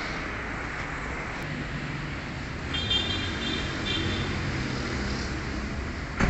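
Steady background road-traffic noise, with a few short high-pitched squeaks about three seconds in and a single sharp knock near the end.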